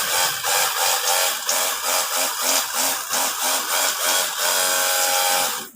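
Battery-powered pressure washer's motor and pump running, with a fast even pulsing of about five beats a second that turns steadier near the end, then cuts off abruptly. It runs without stalling on a freshly charged battery.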